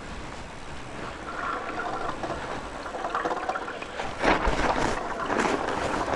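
Fat bike riding along a trail: wind rushing over the microphone and the rush of the tyres, with two louder clattering surges about four and five and a half seconds in.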